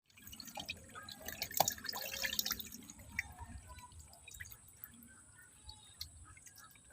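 Water splashing and dripping in a small tank: a busy run of splashes about a second in, thinning out to scattered drips.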